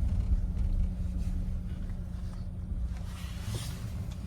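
Idling engine: a steady low rumble with a constant hum, easing slightly in loudness.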